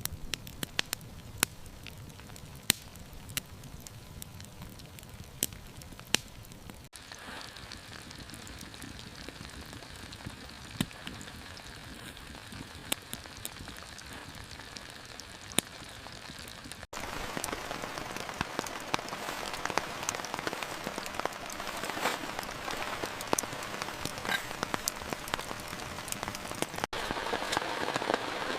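Steady rain falling, with many individual drops landing in sharp separate taps. The rain grows heavier and louder a little past the middle.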